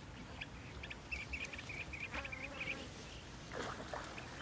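Outdoor wildlife ambience: a bird calling in a quick run of short high chirps about a second in, over a low background rumble, with a brief rustling sound near the end.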